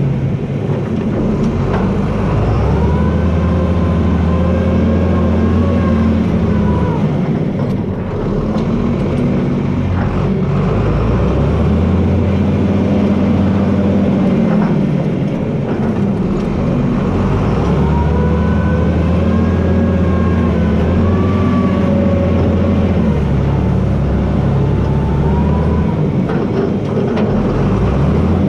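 John Deere 4320 tractor's six-cylinder diesel engine running steadily while blading. Twice a higher whine rises and falls for several seconds as the engine and drivetrain take load.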